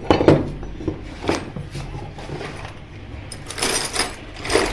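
Small metal pump parts being handled and set down on a workbench during reassembly of a water pump's seal: a series of light clinks and knocks, the busiest clatter near the start and again near the end.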